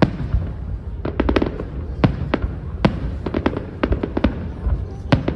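Fireworks display: an irregular string of sharp bangs, several a second at times, over a steady low rumble.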